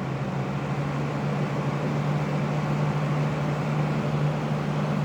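Fan running on full blast alongside an LG air conditioner: a steady rush of air over a low, even hum. The fan noise covers a small noise from the new unit's compressor that is hardly noticeable.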